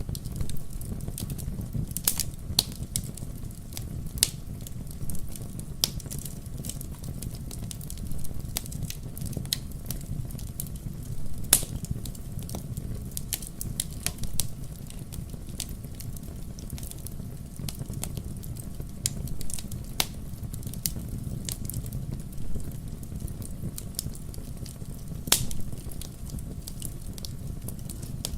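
Wood fire burning in a fireplace: logs crackling with irregular sharp snaps and pops over a steady low rumble of the flames.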